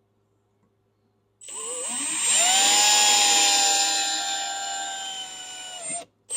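A power drill spinning up and boring a small hole into an old skid-steer wheel seal, the first step to pulling the seal out. Its whine rises in pitch as it starts about a second and a half in, holds steady, then stops just before the end, followed by a short click.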